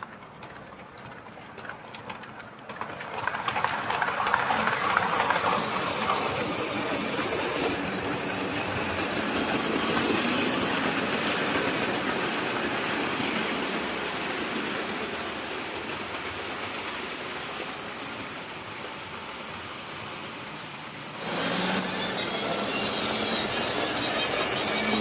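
OO gauge model train, a Class 25 diesel with OAA/OBA open wagons, running along the track. It grows louder about three seconds in as it comes close, and about twenty-one seconds in it suddenly steps up louder with a steady low hum.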